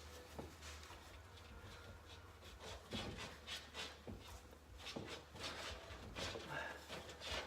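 Faint rubbing and irregular light knocks of engine parts being handled, as the carburetor is worked free of its rubber boot on a small motorcycle engine, over a low steady hum.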